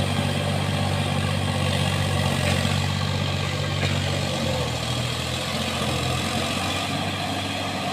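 Sonalika tractor's diesel engine running steadily at low revs, its note shifting slightly about halfway through.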